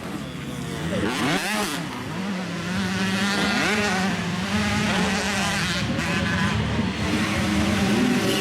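85cc two-stroke motocross bikes racing, engines revving up and down through the gears, with one engine held at a steady high pitch for a couple of seconds near the middle.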